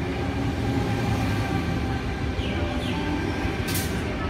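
Double-deck electric suburban train moving along the platform, with a steady rumble and faint hum. A couple of brief rising squeaks come just before a short, sharp hiss or clack about three and a half seconds in.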